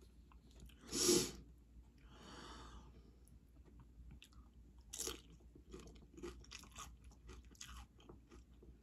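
Close-up chewing of nachos, tortilla chips crunching and crackling in the mouth in a string of short crunches through the second half. A short, louder rush of noise comes about a second in.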